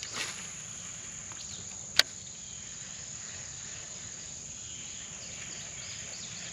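Steady high-pitched insect chorus of a summer pond, with a short swish right at the start and one sharp click about two seconds in.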